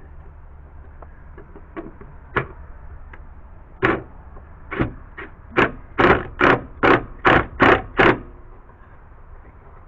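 A hammer striking wood: a few scattered taps, then a steady run of about six heavier blows, roughly two and a half a second, while a wooden backing block is driven into place.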